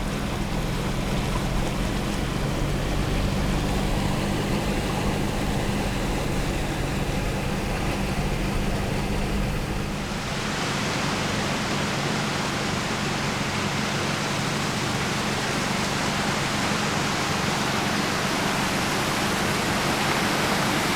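Steady low hum of a car driving. About halfway through, the hum drops away and a louder, even rushing hiss of the flooded river takes over.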